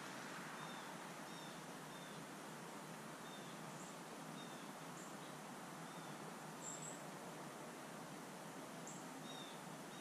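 Faint short bird chirps, about one a second, with a few higher notes among them, over a steady outdoor background hiss.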